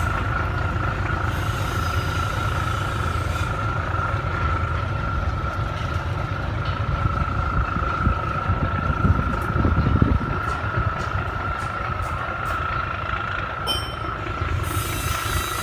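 Boat's Cummins diesel engine running steadily under way: a continuous low rumble with a steady high whine above it, swelling briefly about two-thirds of the way through.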